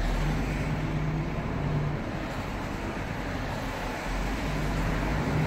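Truck engine running, heard from inside the cab: a steady low rumble, with a low engine note that fades out about two seconds in and comes back near the end.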